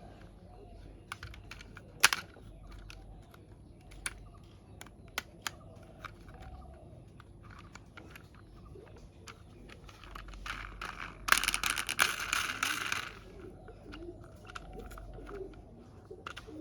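Scattered light clicks and taps of small plastic parts being handled, with one sharper click about two seconds in, and about two seconds of dense rattling or crinkling about eleven seconds in.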